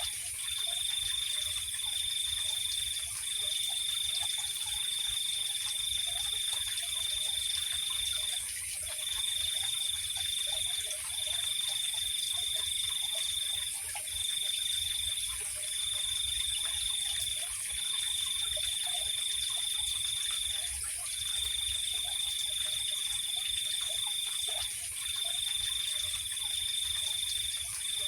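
Night chorus of insects and frogs. One high, even trill runs in stretches of one to five seconds broken by short gaps, over a steady, higher-pitched insect hiss, with scattered faint lower calls.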